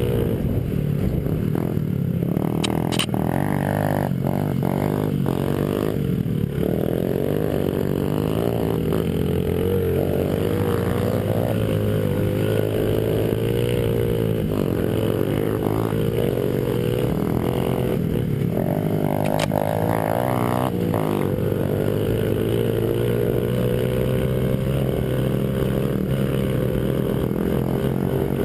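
Honda 50 cc single-cylinder four-stroke pit bike engine running under throttle, its pitch rising and falling continuously as it is ridden, with a few short clatters.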